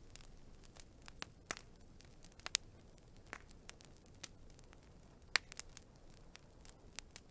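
Burning wood fire crackling, with irregular sharp pops several times a second over a soft low hiss. The loudest pops come about two and a half and five and a half seconds in.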